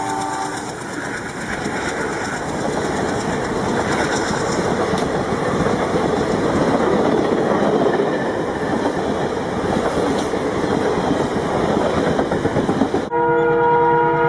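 Recorded sound of a train running on rails, a steady rumble and clatter, with a horn dying away about half a second in. Near the end the sound cuts abruptly to a loud horn sounding several notes at once.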